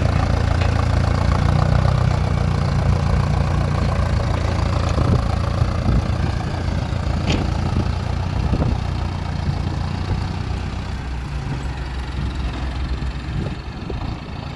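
Heavy machinery's diesel engine running steadily with a low rumble, with a few short clanks; the engine sound eases off somewhat over the last few seconds.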